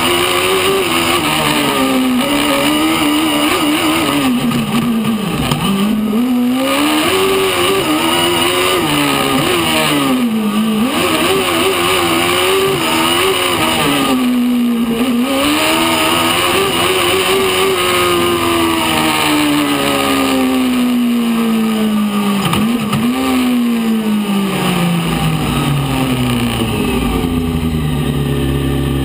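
Fiat 600 prototype race car's engine heard from inside the cabin, revving up and down hard with several sharp dips in pitch as the throttle is lifted. In the last ten seconds the engine note falls steadily and settles to a low, steady note near the end as the car comes to a stop.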